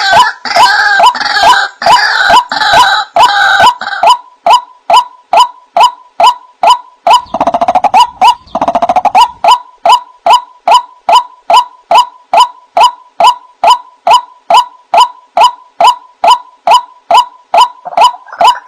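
White-breasted waterhen (ruak-ruak) calling: a monotonous, evenly spaced series of sharp notes, about two and a half a second. Harsher overlapping calls join in during the first few seconds and again about halfway through.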